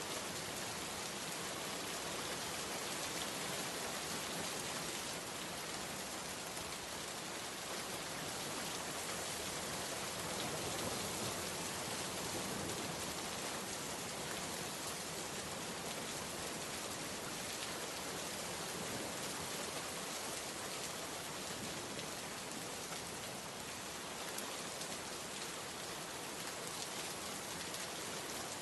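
Steady rainstorm: a dense, even hiss of many raindrops that keeps up without let-up.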